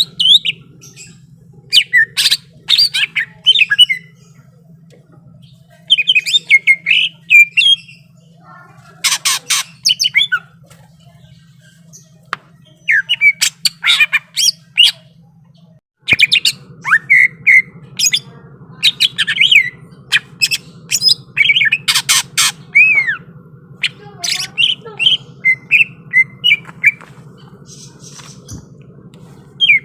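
Cucak ijo (green leafbird) singing in loud bursts of rapid sharp chirps, whistles and harsh notes, each burst a second or two long with short pauses between, over a faint steady hum.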